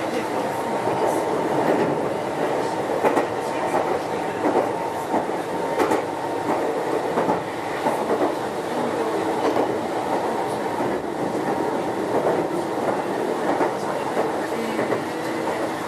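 Meitetsu 6900 series electric train car Mo6921 running at speed: a continuous rumble with a faint steady hum and irregular clicks and clacks from the wheels on the track.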